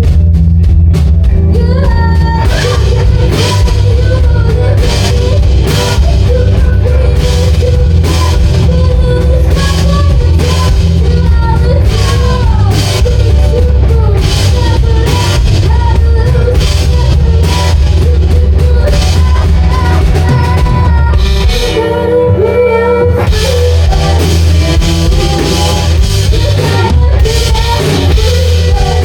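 A rock band playing loud, with drum kit, bass and electric guitar. The drums come in hard about two seconds in, and the bass drops out briefly about three quarters of the way through before the full band returns.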